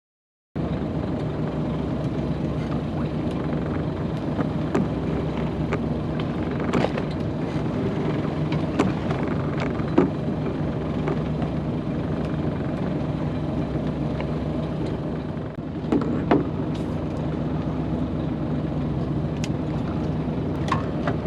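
Boat engine running at a steady drone, with a few scattered clicks and knocks over it.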